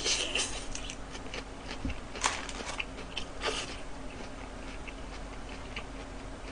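Close-miked mouth sounds of eating a burger: soft chewing with scattered wet lip smacks and clicks, a little busier at the start as sauce is licked off the fingers. A faint steady hum runs underneath.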